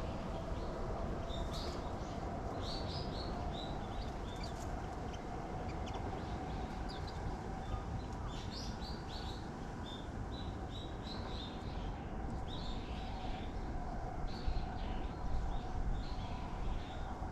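Small birds chirping and twittering in many short, high-pitched notes, some in quick runs, over a steady low background rumble.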